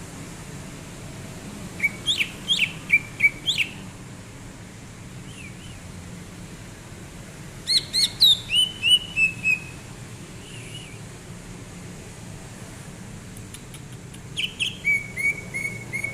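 Cucak ijo (green leafbird) singing: three short phrases of quick, sweeping whistled notes, a few seconds apart.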